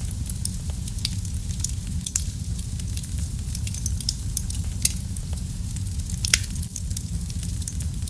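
Fireplace fire crackling: a steady low roar of flames with frequent small sharp pops. A louder pop comes a little past six seconds in.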